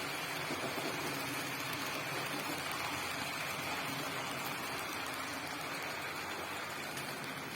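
HO-scale model train, a CC200 locomotive with cement wagons, running along its track: a steady whirring hiss with a faint low hum underneath.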